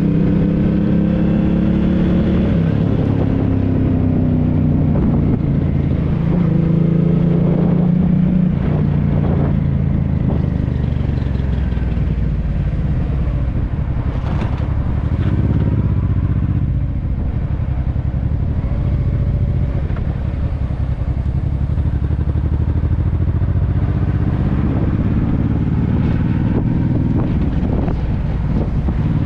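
Honda NT650V Deauville V-twin motorcycle engine running through a Dominator aftermarket exhaust while riding, its pitch falling and rising as speed and throttle change.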